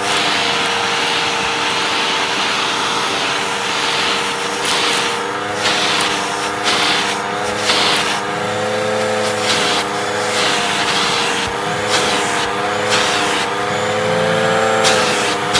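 Hoover vacuum cleaner running with its hose sucking up debris: a steady motor whine whose pitch dips and recovers again and again as the airflow changes, with irregular rushes of hissing air through the hose.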